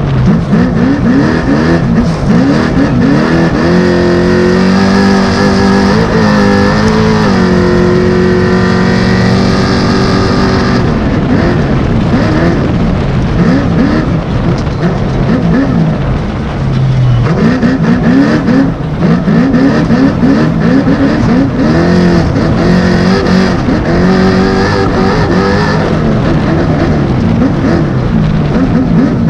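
Onboard sound of a 905-horsepower all-wheel-drive trophy truck at racing speed off-road, with the engine revving up and down over and over under a constant rush of wind and terrain noise. The revs are held high for several seconds in the first third, and there is a brief lift off the throttle a little past halfway.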